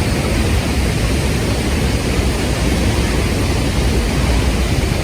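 Waterfall pouring close by: a loud, steady rush of falling water with a deep rumble underneath.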